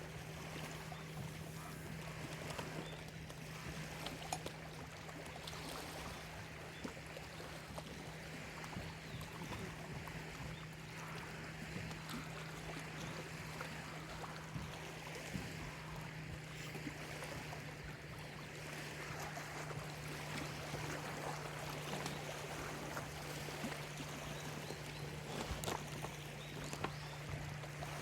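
Small lake waves lapping and splashing irregularly at the shore, over a steady low hum.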